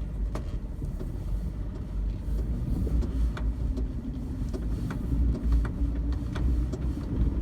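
Vehicle driving slowly over a field: a steady low engine and road rumble with scattered light clicks and knocks.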